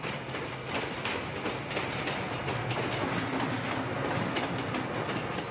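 Korail electric locomotive and its passenger coaches passing at speed: a steady rumble with wheels clicking over the rail joints.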